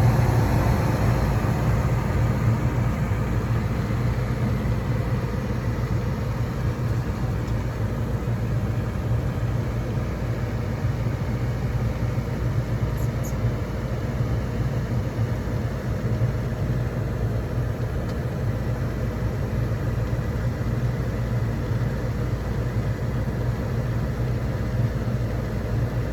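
Gas furnace running with its burners lit: a steady low hum and rumble from the inducer motor, fan and burner flames.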